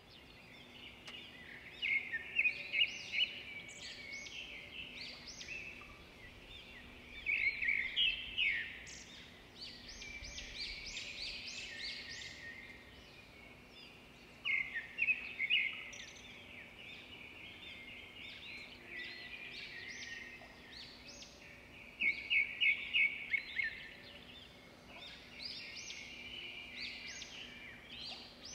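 Small birds chirping and trilling, with louder quick runs of chirps every several seconds, over a faint steady low hum.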